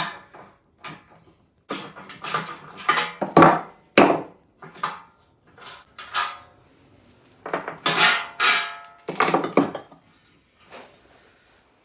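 Metal parts and hand tools clinking and clattering, with a string of sharp knocks in two busy spells, as a steel bush puller (plate, bolt, nut and washer) is loosened off with a spanner and taken apart.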